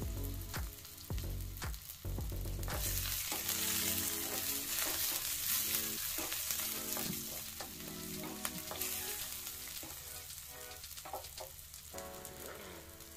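Chopped onions, cumin, dry red chillies and bay leaves sizzling in hot oil in a clay handi, the onion-frying stage of a dal fry tadka. A wooden spatula stirs and scrapes against the clay pot, with sharp knocks mostly in the first few seconds. The sizzle eases off toward the end.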